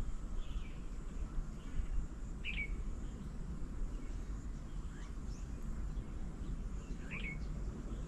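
A few short, sharp bird calls, the two clearest about two and a half seconds in and near the end, over a steady low outdoor rumble.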